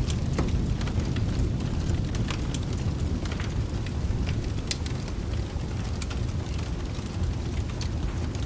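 Wood fire crackling with scattered sharp pops over a deep, steady low rumble of rolling thunder that eases slightly, with rain hissing faintly behind.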